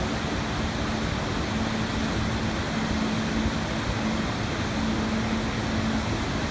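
Rushing water, a steady even hiss like a waterfall or fast stream, with a faint low held tone sounding on and off beneath it.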